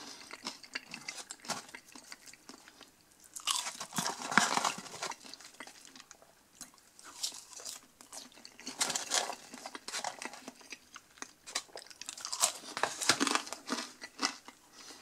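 A person chewing French fries dipped in garlic sauce, close to the microphone. The crunching and chewing come in three spells of a second or two each, with quieter pauses between.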